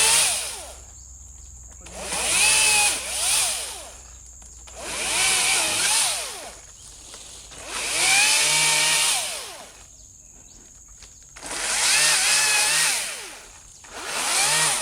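Makita pole saw's small engine and chain revved in repeated bursts about every three seconds as the saw head cuts into an oil palm frond. Each burst rises and falls in pitch, and the engine drops back to idle between bursts.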